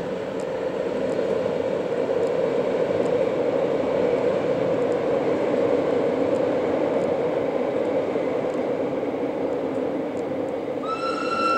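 Montreux–Oberland Bernois train rumbling steadily as it crosses a steel truss viaduct. Near the end, a single steady horn blast begins.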